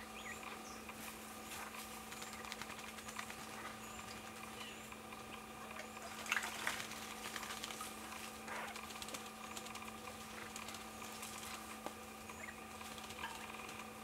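Faint calls of small wild birds: short chirps, the loudest about six seconds in, and thin high notes repeating every second or two, over a steady hum.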